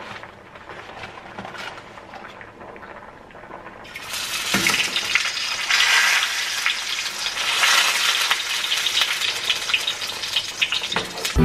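Chicken sizzling and crackling in hot oil in a frying pan. The loud frying starts suddenly about four seconds in, as the chicken goes into the oil, after a few faint handling clicks. Music comes in at the very end.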